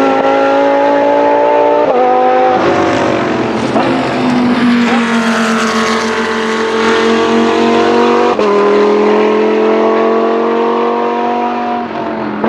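Race car engine accelerating hard through the gears: its pitch climbs steadily, then drops sharply at each upshift, with upshifts about two seconds in, about eight seconds in and near the end.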